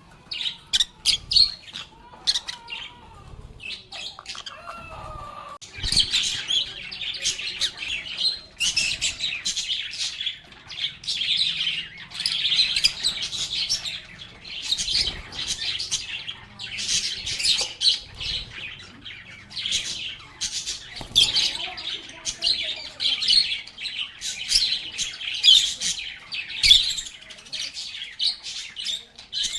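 Several lovebirds (Agapornis) chirping and chattering in rapid high-pitched bursts. The calls are sparser for the first few seconds, then near continuous.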